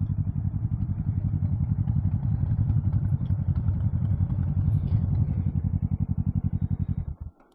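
Motorcycle engine running at low revs with a steady, fast, even pulse, then shut off about seven seconds in.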